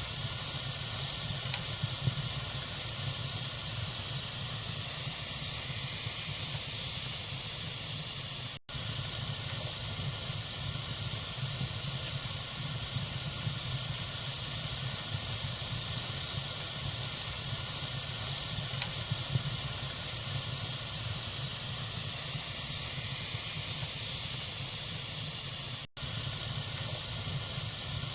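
Wood fire burning in a fireplace: a steady hiss with a few faint crackles. The sound cuts out for an instant twice, once about nine seconds in and again near the end.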